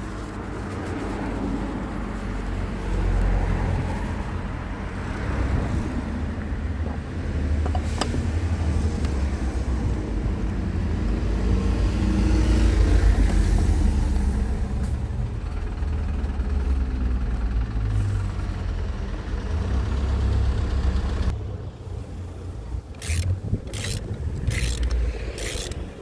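Car engine running with a low, uneven rumble that cuts off about 21 seconds in, followed by a few short, sharp noises.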